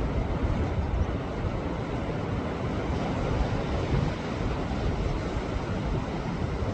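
Sea waves surging and washing against shoreline rocks: a steady surf wash with a heavy low rumble and no separate crashes standing out.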